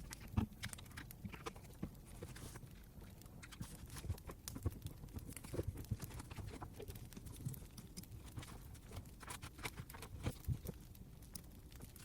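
Campfire crackling: irregular snaps and pops of burning wood over a low rumble, starting abruptly.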